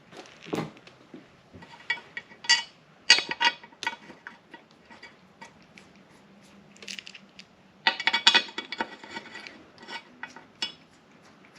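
Metal bolts and tools clinking against the engine's valley cover as its bolts are set in place: scattered sharp clinks, then a quicker run of clicks about eight seconds in.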